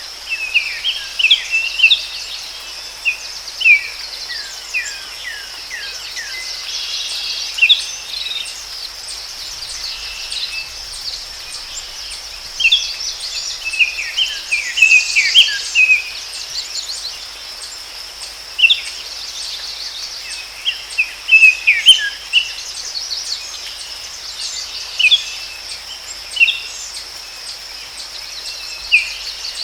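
Forest birds chirping and calling throughout, with many short notes that sweep downward, over a steady high insect drone.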